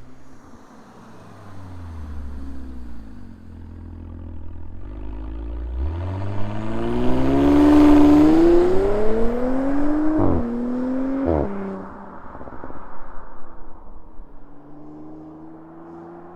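2018 Audi B9 S4's turbocharged 3.0-litre V6 through an Armytrix exhaust with the stock downpipe, accelerating hard. The engine note climbs steadily in pitch and grows loudest, then drops sharply twice in quick succession at upshifts about ten and eleven and a half seconds in, before settling lower and quieter.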